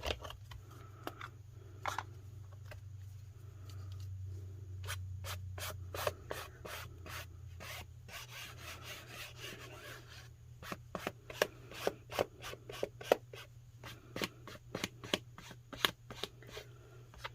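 Paper and craft pieces being handled and rubbed on a work surface: rustling and rubbing, with many light taps and clicks.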